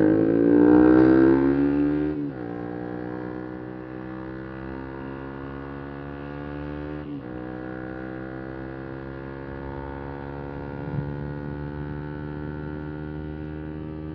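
125 cc single-cylinder motorcycle engine, louder and falling in pitch over the first two seconds, then holding a steady, quieter note. There are two brief breaks, about two and seven seconds in.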